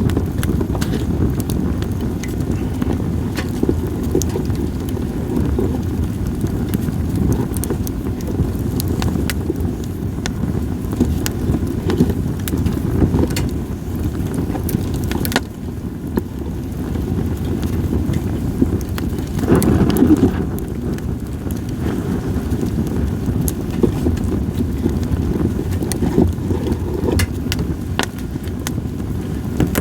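Wood fire of split sawtooth oak (kunugi) logs crackling with scattered sharp pops, over a steady low rush of wind on the microphone that swells briefly about twenty seconds in.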